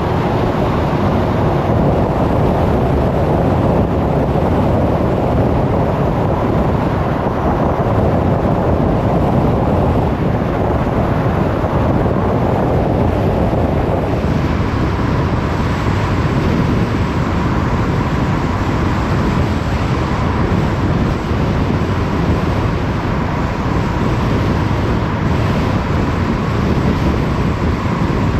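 Steady road noise of a car driving: tyres on the road surface and wind rushing past. About halfway through, the noise turns thinner and a faint steady whine comes in.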